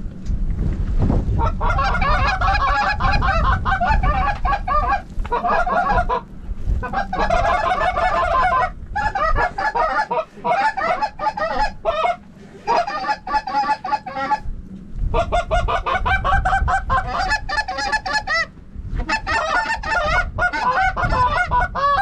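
Geese honking in several bursts of rapid, overlapping calls a few seconds long, separated by short pauses. Wind rumbles on the microphone underneath.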